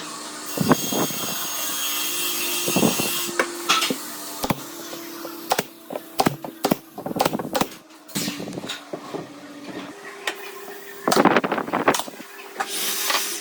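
Wood being worked by hand: a spell of scraping, sawing-like noise near the start and another near the end, with many knocks and taps of wooden pieces in between.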